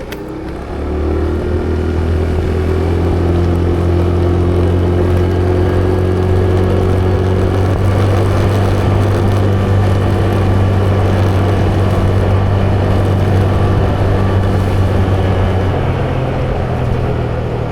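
A vehicle engine running steadily under way. It picks up about a second in, holds an even hum, and changes pitch and eases off near the end.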